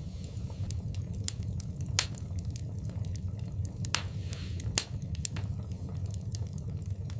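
Wood fire crackling in a fireplace: sharp pops and snaps at irregular intervals over a steady low rumble. The loudest pop comes about two seconds in, with two more strong ones around four and five seconds in.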